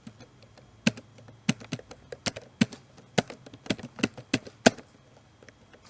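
Computer keyboard being typed on: a run of about fifteen irregular keystrokes over roughly four seconds, stopping a little before the end.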